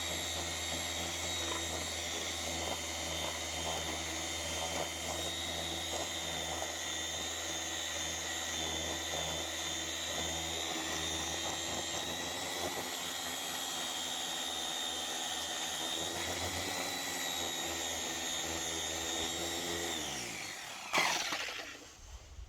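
Electric orbital sander running steadily against the spokes of an aluminium alloy motorcycle wheel. About twenty seconds in it winds down in pitch as it is switched off, followed by a knock.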